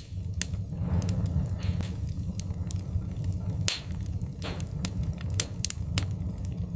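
Wood fire crackling in a fireplace: irregular sharp pops and snaps over a steady low rumble, with a few louder pops in the second half.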